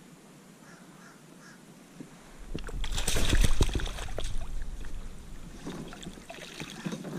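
Water splashing and clattering as a hooked flounder is landed at the kayak. It is loudest from about two and a half to four seconds in, with more clatter near the end.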